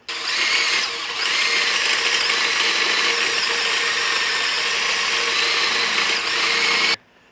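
Power drill boring through steel angle iron with a larger bit, running steadily with a whine. It starts suddenly and stops abruptly about seven seconds in.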